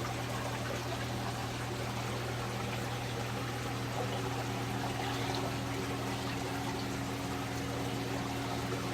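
Saltwater aquarium system running: a steady trickle and pour of circulating water with a constant low pump hum underneath.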